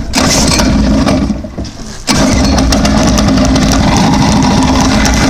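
Dirt bike engine being started and run: it runs, sags and falls off about a second in, then comes back abruptly just after two seconds and runs steadily.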